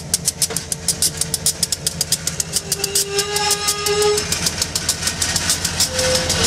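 CSX SD70M diesel-electric locomotives, EMD two-stroke V16 engines, rumbling past slowly at the head of a freight train. A fast, even clicking from the train slows down and fades as it passes, and a short squeal from the wheels comes about three seconds in.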